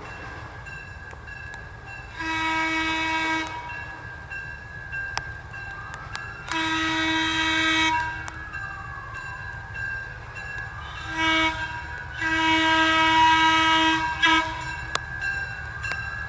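Train whistle sounding five blasts on one steady pitch: two long, a short one, a long one, then a short one near the end.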